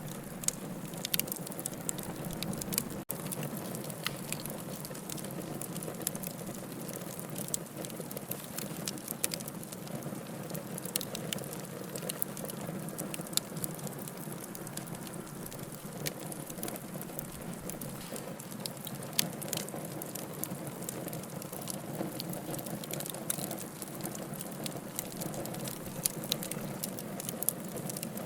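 Wood fire burning logs in a fireplace: a steady low rush of flames with irregular crackles and sharp pops, a few louder ones standing out.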